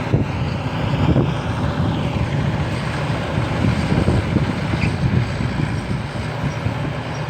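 Hino diesel engine of a rice combine harvester running steadily while the machine works in the field: a dense, even mechanical rumble.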